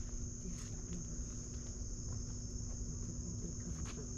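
Insects trilling in a steady, high-pitched chorus, with a few faint clicks.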